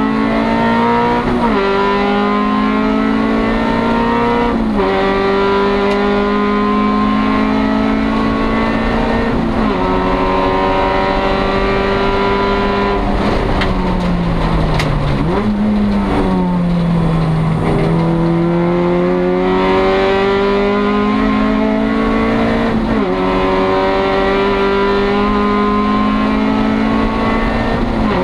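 1996 Acura Integra race car's four-cylinder engine at full throttle, heard from inside the stripped cockpit. The pitch climbs through the gears with quick upshifts at about a second and a half, five seconds and ten seconds in. Around the middle it falls as the car slows, with a short jump from a downshift, then climbs again, with further upshifts near the end.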